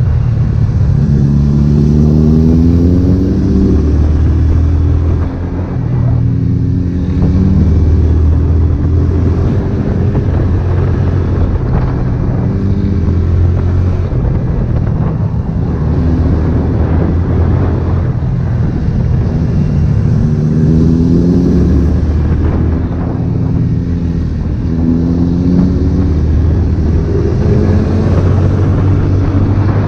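Honda CB1000R inline-four engine running under way, its pitch climbing as it accelerates about a second in and again twice past the two-thirds mark, between stretches of steadier running.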